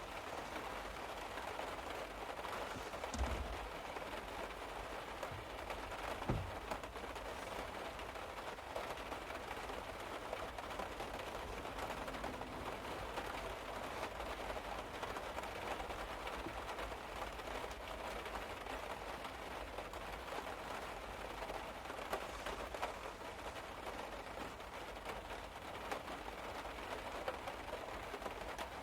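Rain pattering steadily on the car's roof, heard from inside the car, with two short low thumps about three and six seconds in.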